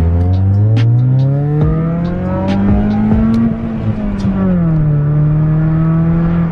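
Car engine pulling under acceleration, its pitch rising steadily for about three and a half seconds, then easing back down and holding steady as the car cruises.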